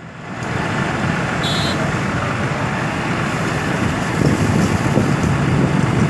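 Heavy truck engines and highway traffic running steadily, fading in over the first second. A short high-pitched tone sounds about one and a half seconds in.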